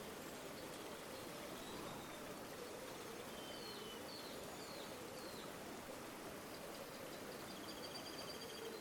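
River water flowing steadily. A small bird calls over it: a few short, high falling chirps a little past the middle, then a rapid high trill near the end.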